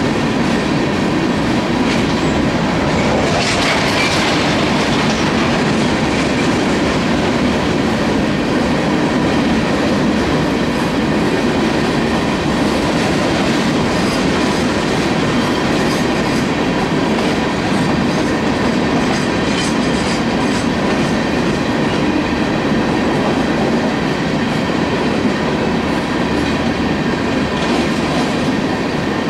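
Coal hopper cars of a freight train rolling steadily past, wheels rumbling and clacking on the rails, with a brief high wheel screech about four seconds in.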